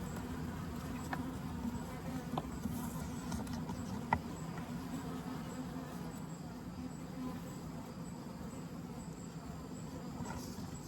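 Honeybees buzzing around an open hive, a steady hum, with a few light knocks about one, two and a half and four seconds in.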